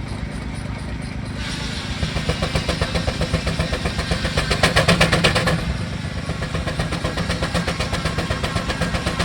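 An engine running with a quick, even beat. It picks up about a second in, is loudest around the middle, then settles back.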